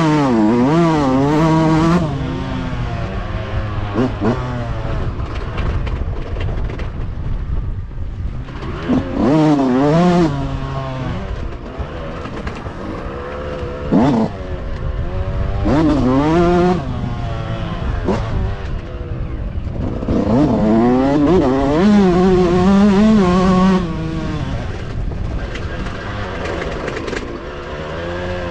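Motocross bikes racing past, their engines revving up and dropping in pitch again and again through gear changes and throttle blips. They are loudest about a second in, around ten seconds in and from about twenty to twenty-four seconds in.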